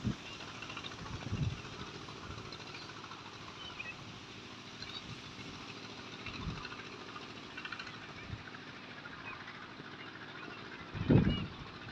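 Outdoor field ambience: a steady hiss with faint scattered chirps, and a brief louder low rumble near the end.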